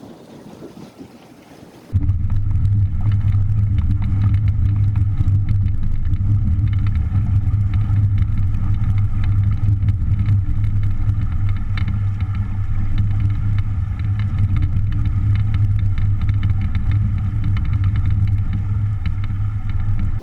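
Small boat outboard motor running at a steady speed. It starts abruptly about two seconds in, after light wind noise, and cuts off suddenly at the end.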